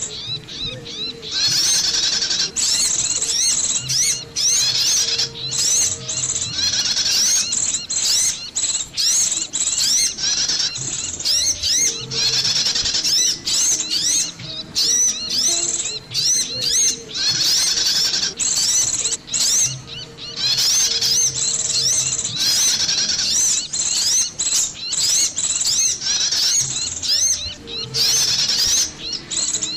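Bird-lure (pikat) recording of small songbirds calling: dense bursts of rapid, high, repeated chirps, each lasting a second or two with short gaps between, over a faint low hum. It is the kind of busy call played to draw small birds such as prinias and sunbirds.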